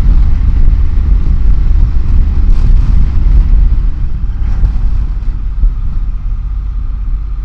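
Motorcycle riding along a road, heard from the rider's own microphone: a steady low rumble of engine and wind buffeting the mic, easing a little in the second half.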